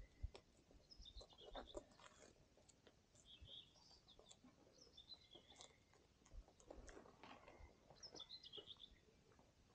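Faint birdsong: small birds chirping in short repeated phrases, with a few soft clicks and rustles close by.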